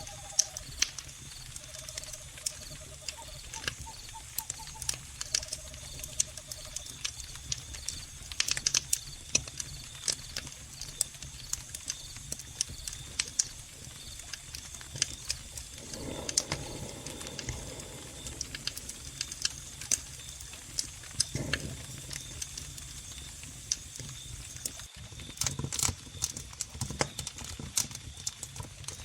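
Wood fire crackling with frequent sharp pops, over a steady high trill of crickets. A few short pitched animal calls sound in the first several seconds.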